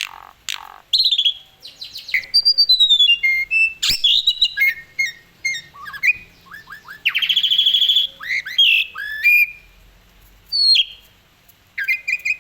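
Asian pied starling (jalak suren) singing a varied song of whistled notes, chirps, rapid trills and harsh squawky calls, with short pauses between phrases.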